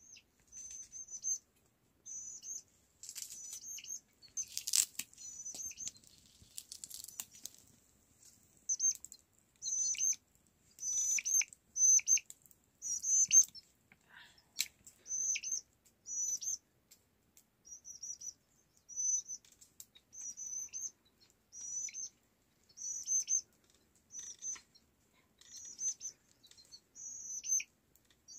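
A small bird chirping: short high calls repeated about once a second, with a few sharp clicks between the calls.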